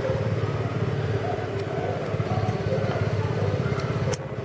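Engine of a 250cc Kandi Cyclone three-wheel trike running at low, steady speed, with a brief click near the end.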